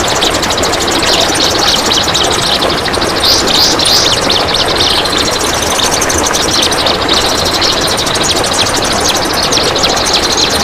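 Kapas tembak singing a long, dense, very rapid rasping trill (besetan), its fast strokes running on without a break.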